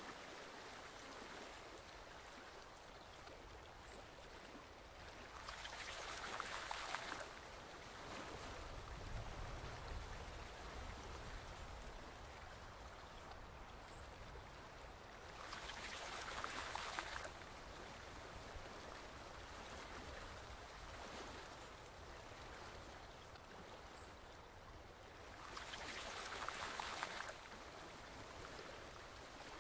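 Stream water flowing steadily as a soft, even rush. Three times, about ten seconds apart, it swells louder for around two seconds.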